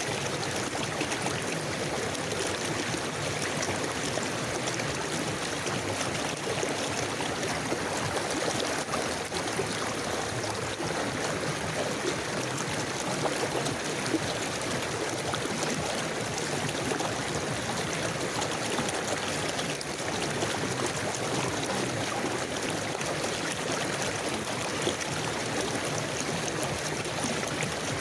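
A river flowing steadily over stones, an even rushing and trickling of water.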